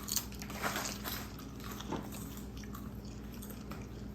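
Crunching bites and chewing of potato chips, a few sharp crackles bunched in the first two seconds, then quieter chewing.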